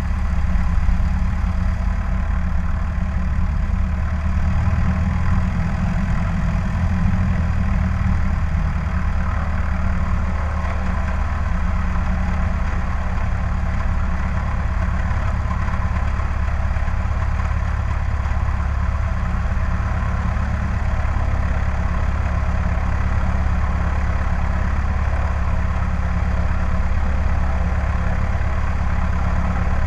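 Cessna 152's four-cylinder Lycoming O-235 engine and propeller running steadily at a constant speed.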